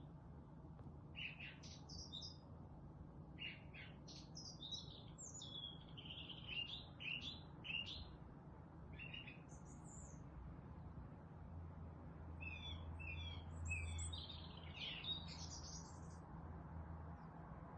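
Songbirds chirping and twittering in short scattered phrases, with a busier run of quick notes past the middle, over a faint steady low hum.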